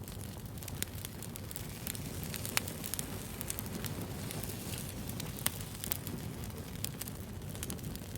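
Wood fire burning with a steady low rumble and irregular crackles and pops, two sharper pops standing out about two and a half and five and a half seconds in.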